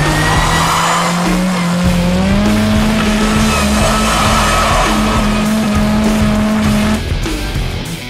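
A car driven hard in a stunt or drift, its engine held at high revs and stepping up once, with tyres squealing, over loud rock music.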